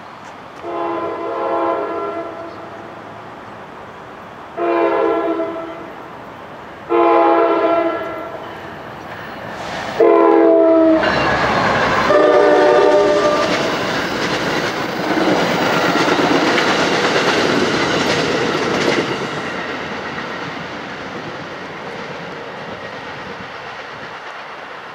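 Passenger train's horn sounding five blasts as it approaches a grade crossing. The pitch drops as the locomotive passes about ten seconds in. The noise of the train's wheels running by over the rails follows and fades away over the last several seconds.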